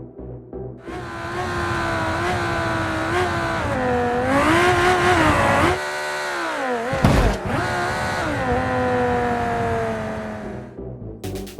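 Race car engine revving, its pitch rising and falling repeatedly. About seven seconds in there is a fast pass-by with a sharp drop in pitch.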